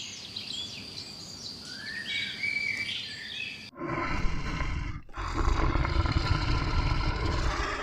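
Birds chirping with short high whistled glides, then an abrupt cut about four seconds in to a loud, deep animal roar that breaks off briefly and starts again.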